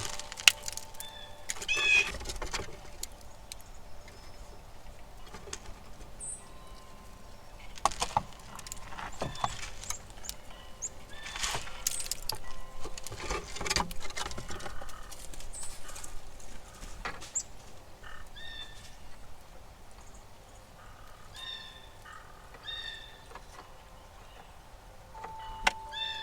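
Backyard ambience: small birds chirping now and then, with occasional sharp knocks and rustles, and a steady chime tone ringing near the end.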